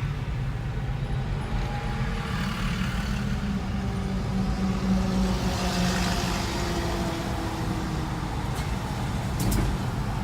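A motor vehicle driving along, with steady engine hum and road noise that swells briefly about midway.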